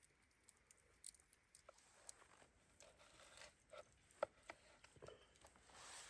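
Faint scattered clicks and crinkly rustles of small things being handled, with one sharper click about four seconds in and a soft swish near the end.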